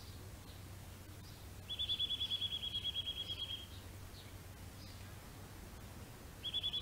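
Garden birdsong: faint scattered chirps, then a rapid, even trill of one repeated note lasting about two seconds, starting again near the end. A low steady hum lies underneath.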